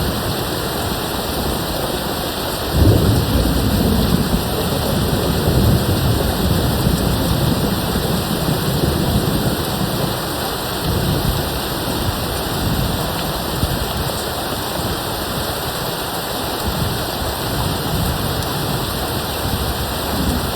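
Steady rain with distant rolling thunder. A louder thunder roll comes in about three seconds in and rumbles on underneath the rain.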